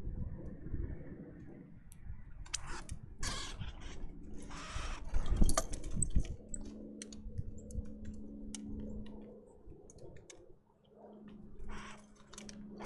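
Birds feeding at a feeder close to the microphone: irregular clicks and low knocks of beaks and feet on the feeder, with several short bursts of rustling in the first half.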